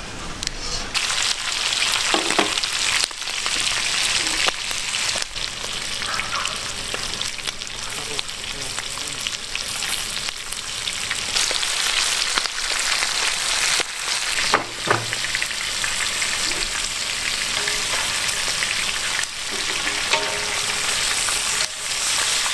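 Python meat and mushrooms sizzling as they fry in a pan, with a steady hiss and now and then the click and scrape of a utensil stirring them.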